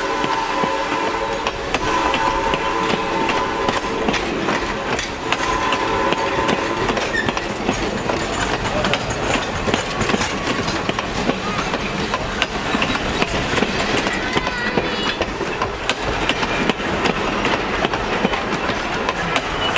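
Vintage passenger coaches rolling past at close range, their wheels clicking and clacking over the rail joints over a continuous rumble and rattle. A ringing tone comes and goes through the first several seconds.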